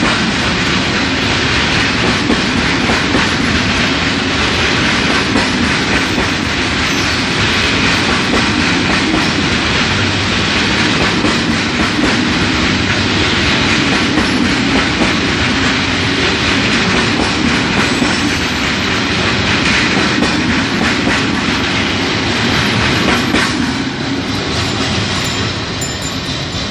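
Freight train wagons rolling past close by: a loud, steady rumble and rattle of wheels on the rails. It grows quieter in the last few seconds as the end of the train goes by.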